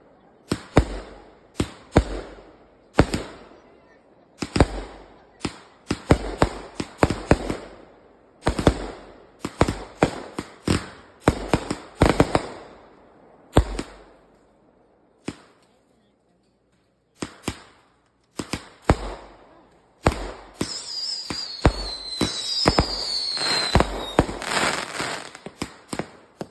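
Consumer fireworks going off: a quick, irregular series of sharp bangs, each dying away, with a lull of a few seconds about halfway through. Near the end a dense crackling sets in, with several whistles falling in pitch.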